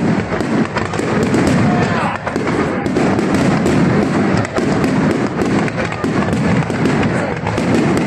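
Fireworks display going off in a dense, continuous barrage: many rapid bangs and crackles overlapping into a steady roar.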